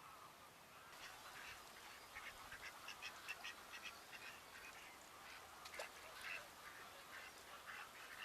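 A flock of wild ducks and geese calling faintly, with many short, overlapping calls that grow busier from about a second in.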